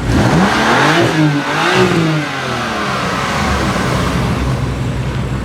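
BMW car engine revved in quick blips, its pitch rising and falling a few times in the first two seconds, then running steadier.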